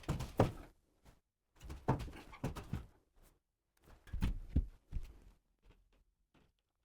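Irregular knocks and thuds from carpentry work on wood, in three short clusters about two seconds apart.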